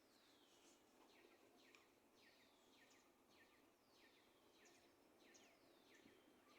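Small songbirds calling faintly: a quick series of short chirps that sweep downward in pitch, about two a second, mixed with a few longer downward whistles.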